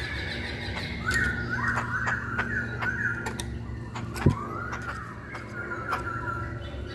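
Chinese hwamei (poksay Hongkong) singing, with clear whistled notes: a quick run of short phrases, then a long arching whistle and a level note, over a steady low hum. A single sharp thump about four seconds in.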